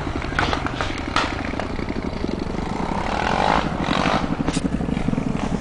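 Dirt bike engine running with a rapid, even firing pulse.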